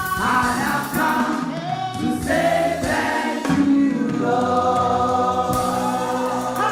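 Congregational gospel worship singing: voices singing together over instrumental backing.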